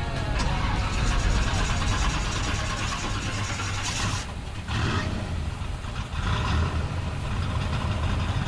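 Car engine starting and then running, with a steady low throb.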